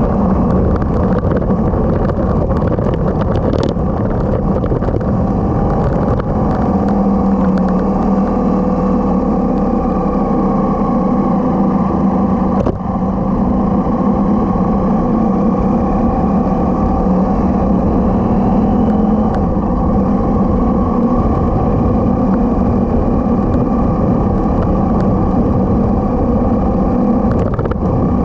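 Motorcycle engine running at a steady cruising speed, its pitch changing only slightly, over a heavy low rumble of wind and road.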